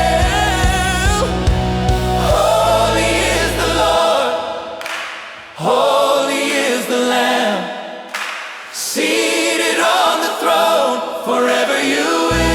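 Gospel-style worship song with a choir singing over the music. The bass and beat drop out two to four seconds in, leaving the voices nearly alone, and come back near the end.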